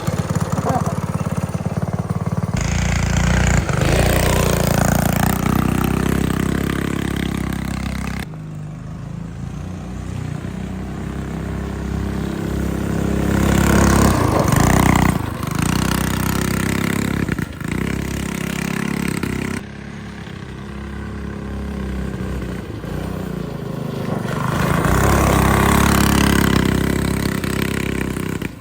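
Small engine of a mini off-road vehicle revving up and falling back as it is ridden hard, in several short clips that cut abruptly from one to the next.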